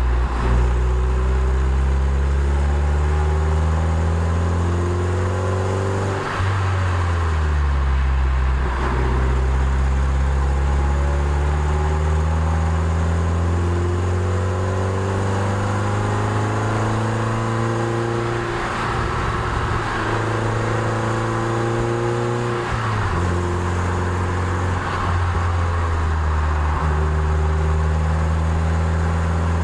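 Toyota MR2 Spyder's mid-mounted 1.8-litre four-cylinder engine pulling up a long climb. Its note rises steadily as it revs through each gear and drops sharply at each upshift, about 6 s in, about 23 s in and again near the end.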